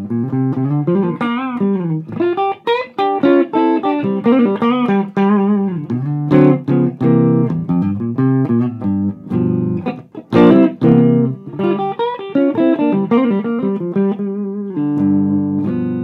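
Gibson Les Paul electric guitar through a Mesa Boogie Dual Rectifier amp's clean channel and a Marshall 1960A 4x12 cabinet, playing a run of single notes and chords with string bends and vibrato. It ends on a chord left ringing near the end.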